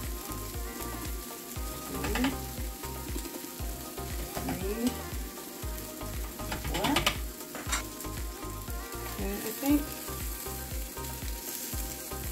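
Turkey meatballs sizzling steadily as they fry in oil in a skillet, with a spoon stirring and clinking in a glass bowl.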